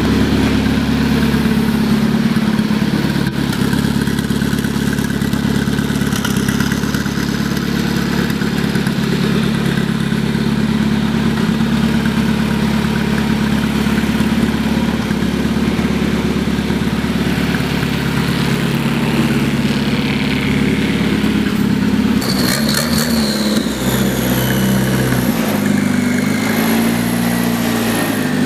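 Tractor engine running at a steady speed, then revving up and down repeatedly over the last several seconds, with a faint falling whine during the revs.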